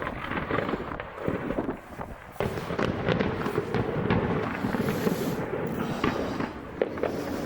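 Fireworks display: a dense, continuous stream of crackling and popping bursts, growing louder about two and a half seconds in.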